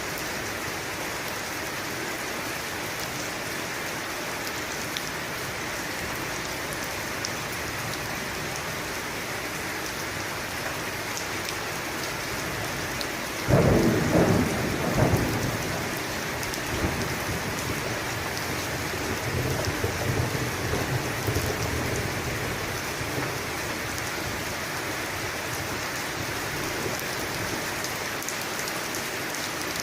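Steady heavy rain with a thunderclap about halfway through: a sudden loud crack, a second burst a moment later, then low rumbling that dies away over several seconds.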